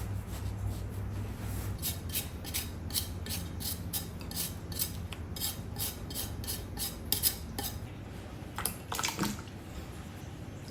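Cutlery clinking against a dish in quick repeated strikes, about two or three a second, as in stirring or mixing food, with a few softer knocks near the end. A low steady hum sits under the first couple of seconds.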